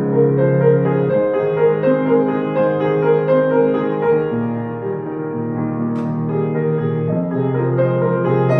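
Piano music: a repeating melodic figure over held bass notes.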